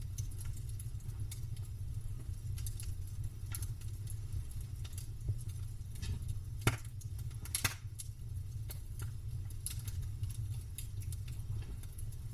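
Wood campfire crackling: irregular sharp pops and snaps, with two louder pops a little past the middle, over a steady low rumble.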